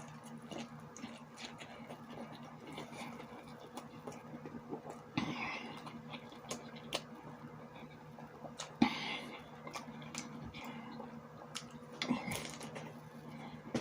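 A person eating close to the microphone: chewing sausages with sauerkraut, with many small wet mouth clicks and smacks, and three louder bites or breaths about five, nine and twelve seconds in. A steady low hum sits underneath.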